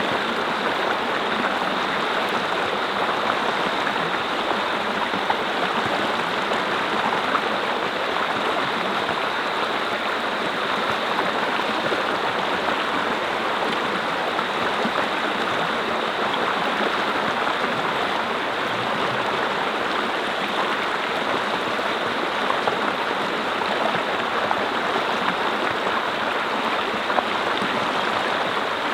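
Mountain brook flowing over rocks: a steady, even rush and babble of water.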